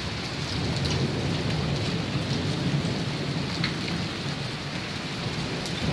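Heavy rain falling steadily with a low rumble of thunder beneath it, and a few sharp drop ticks close by.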